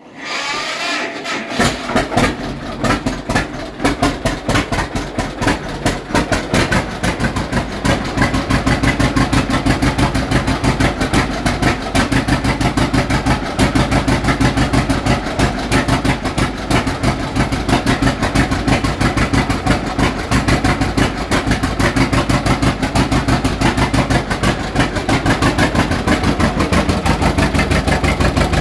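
John Deere Model G tractor's big two-cylinder engine catching and coming to life, firing unevenly at first, then settling after several seconds into a steady beat of exhaust pops at idle.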